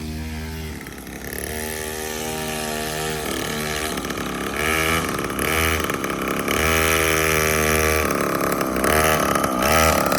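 Small child's dirt bike engine revving up and easing off in short bursts, again and again, growing louder toward the end.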